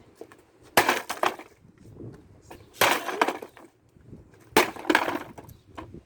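Three hammer blows on a plastic kids' ride-on toy car, each a sharp smash followed by a brief clatter of cracking plastic.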